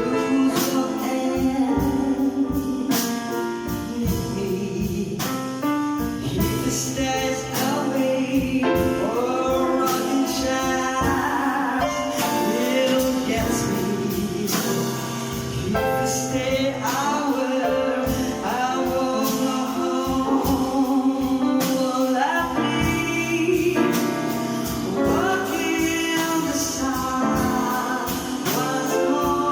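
A song: a singing voice with gliding, held notes over an instrumental accompaniment with a steady beat.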